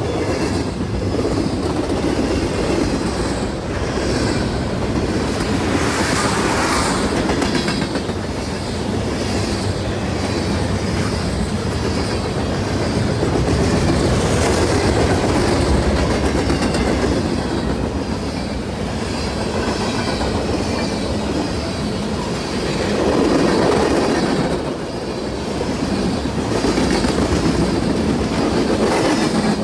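A Norfolk Southern freight train's cars (covered hoppers, boxcars and tank cars) rolling past close by. Their steel wheels make a steady, loud rumble with a clickety-clack over the rail joints, swelling louder about six seconds in and again near the end.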